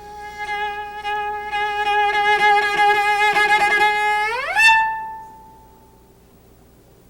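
Cello playing a long, high bowed note that grows louder, then a slow upward slide a little over four seconds in, landing on an accented harmonic. The bow lets go on arrival and the harmonic rings on and fades away. This is a slow long-distance shift to a harmonic, bowed slowly and released only on arrival.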